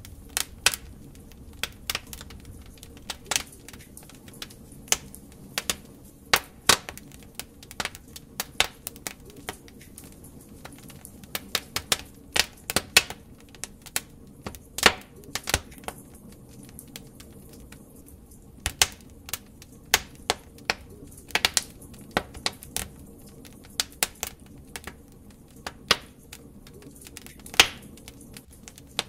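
Wood fire in a fireplace crackling: irregular sharp pops and snaps from the burning logs over a low steady rumble of the flames.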